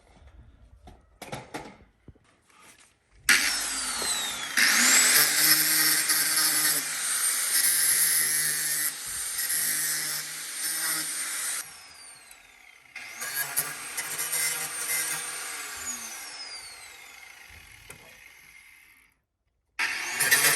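A power tool's motor run twice at full speed, each time rising in pitch as it spins up and sliding down as it winds down, then a short loud burst near the end.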